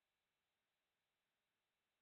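Near silence: only a very faint, steady hiss.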